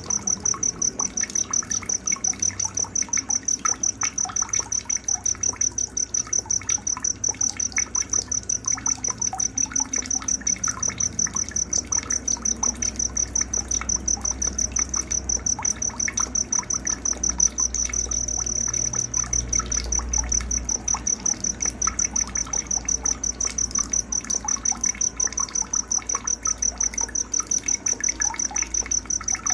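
Night-time nature ambience: a cricket chirping in a steady, evenly pulsed high trill, about four pulses a second, with scattered short bird chirps behind it.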